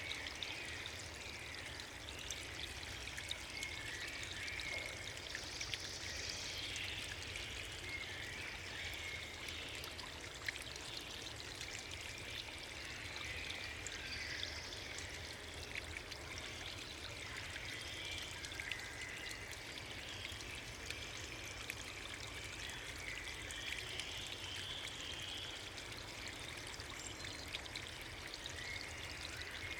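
Steady rushing of water from a river or waterfall, an even wash of sound with no break.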